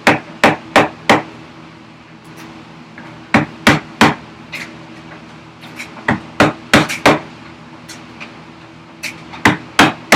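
Hammer tapping a chisel into dry, hard ash: sharp taps in quick bunches of three to five, with short pauses between, as waste is chopped away.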